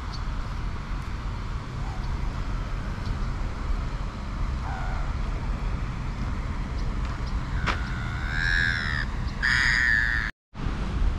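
A large bird calls twice, loud and close, each call just under a second long, over a steady low rumble of traffic and wind. A fainter call comes about halfway through. The sound drops out for a split second just after the second call.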